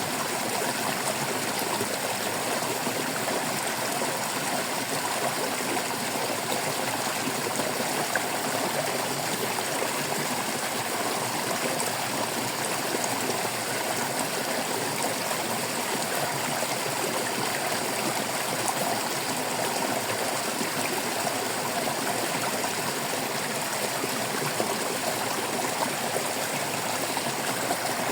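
Water babbling and trickling steadily in a stream, an even rushing without breaks.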